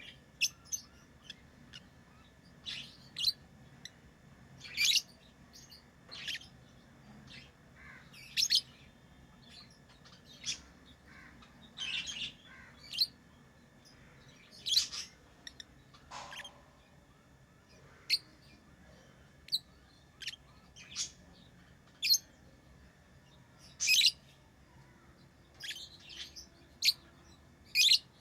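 Pet lovebirds chirping: short, sharp, high-pitched single calls at irregular intervals of a second or two.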